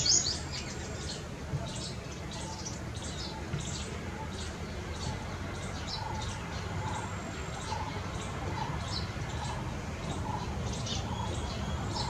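Birds chirping: many short, high calls scattered throughout, with a loud run of chatter ending just at the start and a few lower notes in the second half, over a steady low rumble.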